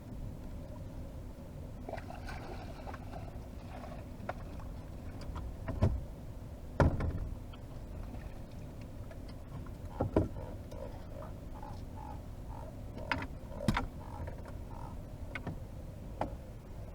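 Several sharp knocks and thumps in a small fishing boat, the loudest about seven seconds in, over a steady low background of wind and water.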